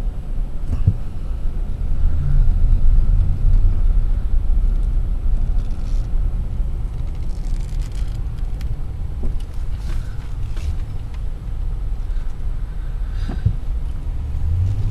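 A car driving: a steady low rumble of engine and road noise, with a few short knocks from bumps.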